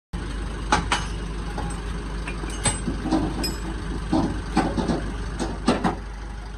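A steady low mechanical hum that starts abruptly, with about a dozen irregular sharp metallic knocks and clanks over it.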